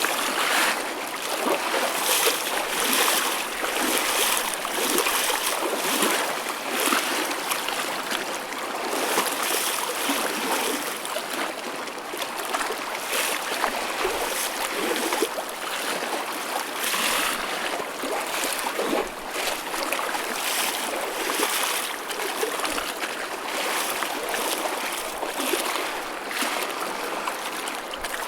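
Choppy ocean waves: a continuous wash of water with many small, irregular splashes and slaps, with no deep boom of breaking surf.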